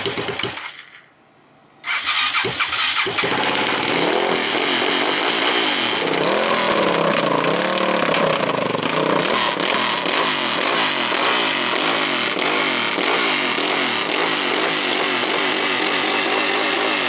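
Suzuki TL1000 V-twin engine in a hillclimb bike with homemade exhaust pipes catching and starting about two seconds in, after a short first burst that cuts out. It then runs loud, revved up and down for a few seconds, and settles into a steady run.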